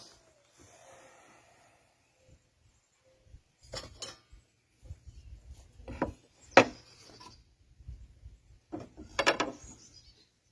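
Wooden parts being handled on a workbench: scattered knocks and short rubbing scrapes, with one sharp knock a little past the middle and a quick cluster of knocks near the end.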